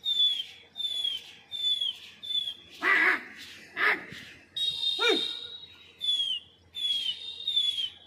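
A small bird's short, high chirp, falling slightly in pitch, repeated evenly about every three-quarters of a second. A few short wordless human calls come in the middle, the last one sliding down in pitch.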